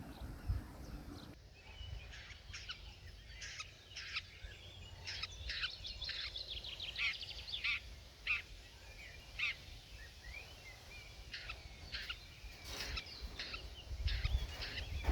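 Small songbirds chirping and singing in many short, overlapping calls and trills. A low rumble runs underneath and grows louder near the end.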